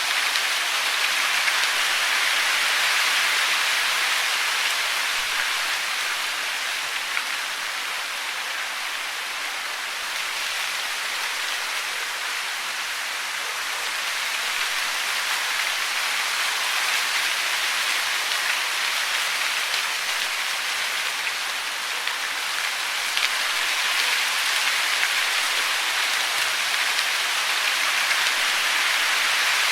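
Steady hiss of falling water, a dense even wash of noise that slowly swells and eases over several seconds.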